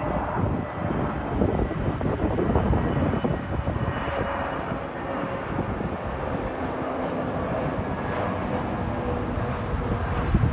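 Airbus A320neo jet airliner arriving, its engines giving a steady rushing rumble with a faint whine.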